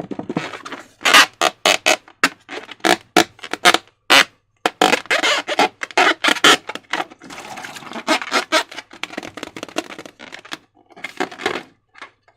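Slime being squished and worked by hand, giving a quick, irregular run of wet squelches and sticky clicks.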